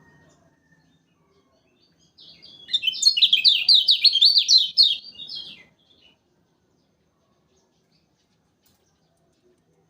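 Kecial kuning (a Lombok white-eye) singing one loud, rapid phrase of quick falling chirps, about three seconds long, starting about two seconds in.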